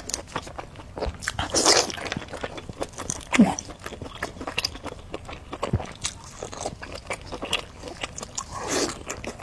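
Close-miked eating: crunchy bites and chewing with many sharp, wet mouth clicks throughout, and a few brief louder mouth noises in between.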